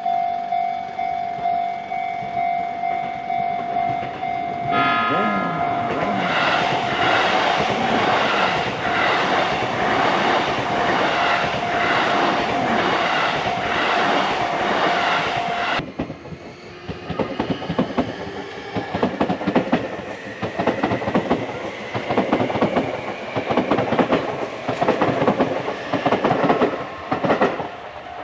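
A railway crossing warning bell rings with a steady pulsing tone as a Sotetsu 20000 series electric train runs past, its noise swelling about five seconds in. After a sudden break about halfway, the train is heard again with its wheels clattering rhythmically over the rail joints.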